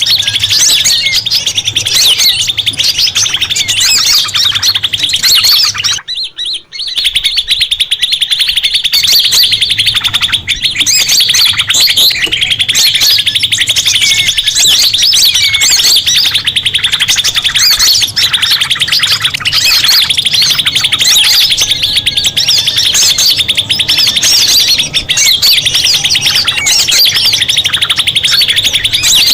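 Recorded songbird calls used as a bird lure: a dense, fast, high chirping trill with overlapping tweets, cutting out briefly about six seconds in.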